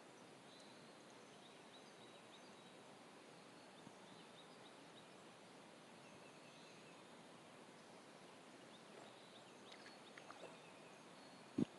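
Quiet outdoor ambience with faint high bird chirps throughout. A few soft clicks come near the end, then one brief thump just before it ends.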